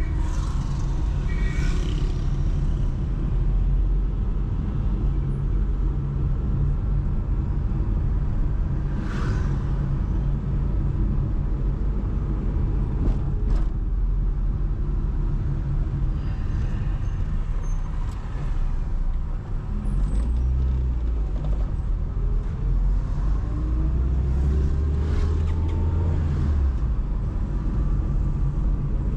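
Traffic noise from a car driving through city streets: a steady low engine and road rumble, with other vehicles whooshing past now and then. About three quarters of the way through, an engine note rises as a vehicle speeds up.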